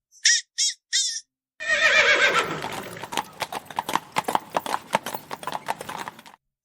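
Three short, high-pitched chirps, then a horse whinnying: a loud neigh that falls in pitch with a quaver and breaks up into a fluttering run of quick pulses lasting several seconds.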